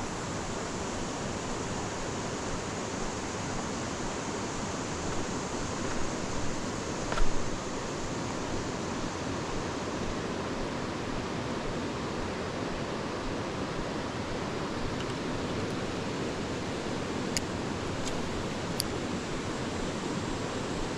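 Creek water rushing steadily, loud enough to drown out a voice a short way off. A brief knock about seven seconds in, and a few faint clicks later on.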